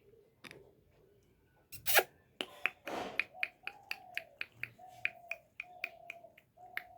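Rhythmic finger snapping, about three sharp snaps a second, with a louder crack about two seconds in and a brief noisy burst a second later. From about halfway through, four short held tones repeat between the snaps.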